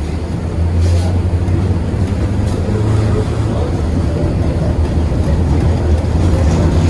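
KTM-8KM tram running, heard from on board: a steady low rumble of the motors and wheels on the rails, with a few faint clicks, growing slightly louder through the stretch.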